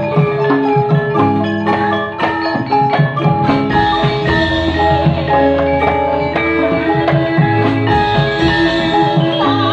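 Campursari music: a Javanese ensemble with struck metallophones playing a steady rhythm over drums and long sustained bass notes.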